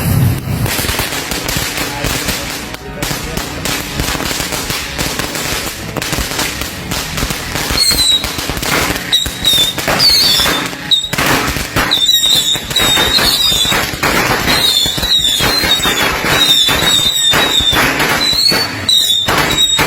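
A bundle of about a hundred bottle rockets (窜天猴) going off together: continuous hissing and crackling with many small bangs. From about eight seconds in, rocket whistles waver in and out.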